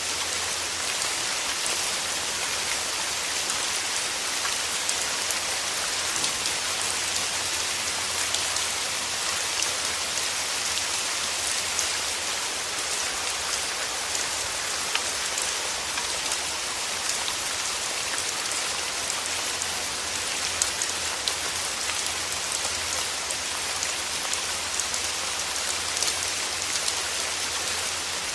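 Steady rain: a dense, even hiss of falling drops, with many small individual drop ticks through it.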